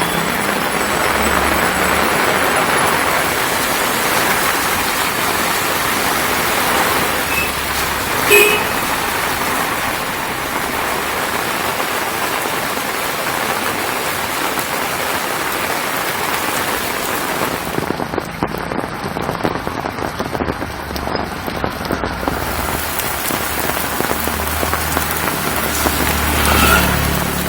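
Heavy rain falling steadily, with the low rumble of vehicles at times and one brief sharp sound about eight seconds in.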